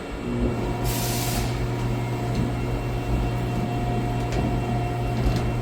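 Haas TM-2P CNC vertical machining center moving its axes to the G28 home position, a steady hum from the axis drives starting just after the beginning, with a fainter higher whine. A short hiss of air about a second in.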